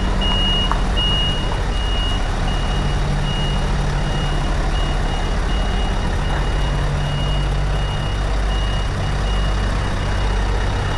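Scania V8 truck reversing: its reversing alarm gives a high, regularly repeating beep over the steady low running of the V8 diesel engine.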